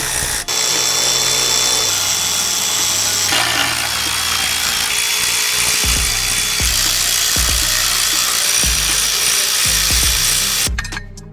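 A power tool running steadily, cutting off near the end, over background music with a regular beat.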